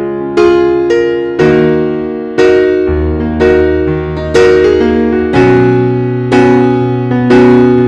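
Slow, gentle piano music: soft chords struck about once a second, each ringing out over held bass notes.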